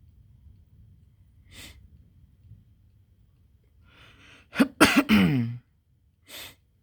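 A person's loud cough-like burst about two-thirds of the way in, preceded by a short breath in and followed by a short breathy sniff, over a faint low rumble.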